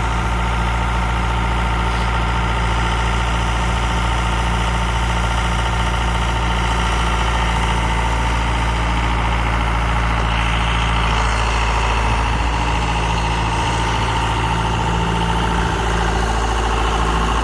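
John Deere 6410's four-cylinder diesel running steadily, heard from inside the tractor cab: an even low engine drone with a steady higher whine above it.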